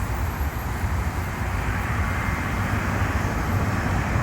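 Jet airliner on final approach, its engine noise a steady rumble that grows gradually louder as it nears.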